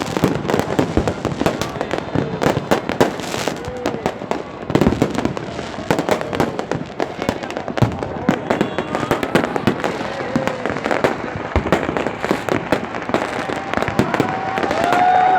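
Fireworks going off: a dense, irregular crackle of many sharp bangs and pops with no pause. A held tone comes in near the end.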